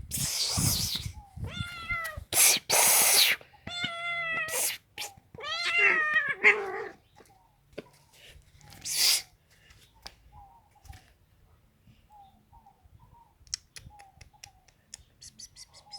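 A cat meowing repeatedly, four drawn-out meows with the pitch rising and falling in the first seven seconds, with loud noisy bursts in between. After that only faint short calls and clicks.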